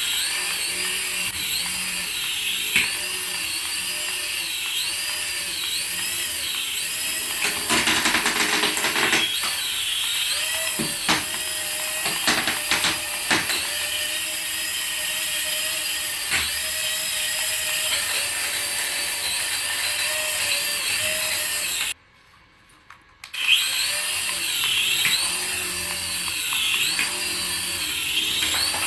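Small electric motor of a battery-powered toy whirring steadily, with a warbling electronic tone repeating over it. It cuts out for about a second and a half about three quarters of the way through, then resumes.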